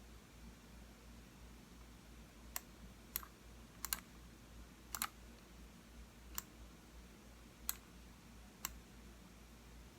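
Computer mouse buttons clicking: about eight separate clicks, including a quick double-click about four seconds in and another about five seconds in, over a faint low hum.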